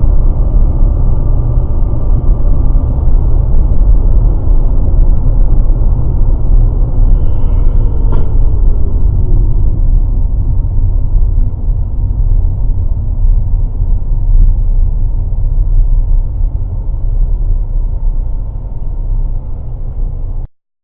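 Heavy, steady low rumble of a moving car, as picked up by a dashcam microphone, with a single click about eight seconds in. It cuts off suddenly near the end.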